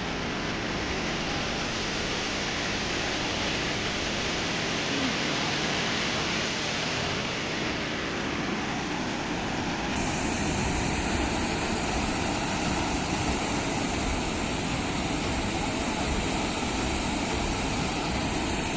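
Water rushing out through an opened dam gate: a steady, noisy rush that changes character about ten seconds in, at a cut to another shot.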